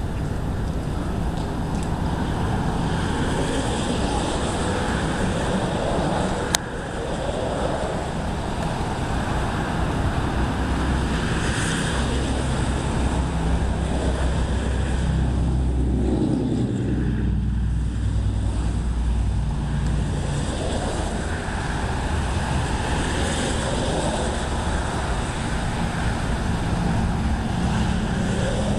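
Storm wind gusting across the microphone: a steady rushing and rumbling that swells and eases over several seconds, with one sharp click about six and a half seconds in.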